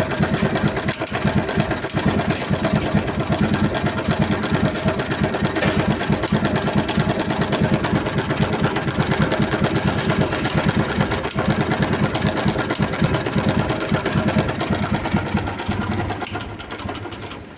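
TVS Apache RTR 160's single-cylinder engine idling with a fast, continuous 'tik-tik' ticking, the fault noise it was brought in for. The sound dies away near the end.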